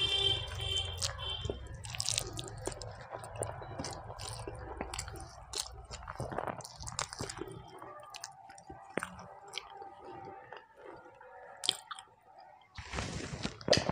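Close-miked chewing with lip smacks and small wet clicks from a mouthful of rice and curry, mixed with soft squelches of fingers mashing rice on a steel plate. A short rushing noise comes near the end.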